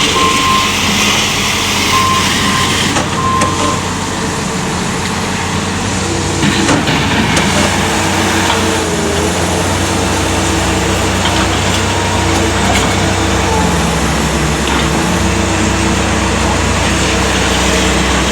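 Bobcat skid steer loader running steadily, its engine changing pitch now and then as it works, with three short high beeps in the first few seconds.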